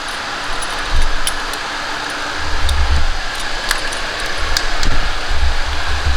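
Scattered light metallic clinks of hand tools and fittings over a steady fan-like hiss, with irregular low thumps of handling.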